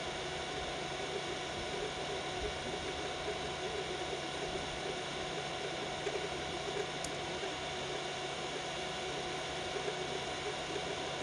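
Biqu BX 3D printer running a print at 120 mm/s: a steady whir of its fans with the stepper motors' tones and small mechanical rattles as the print head moves.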